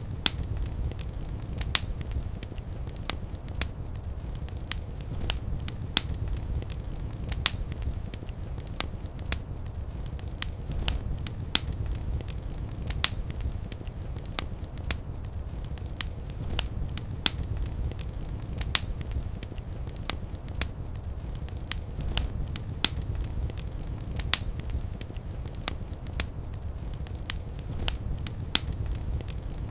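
Fireplace fire crackling: irregular sharp pops and snaps, a few a second, over a steady low rumble of the flames.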